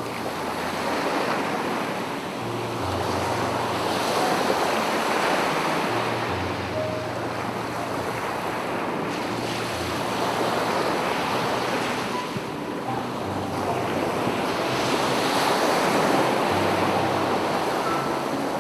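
Sea surf: waves breaking and washing up a beach, swelling and fading in long surges about every five or six seconds.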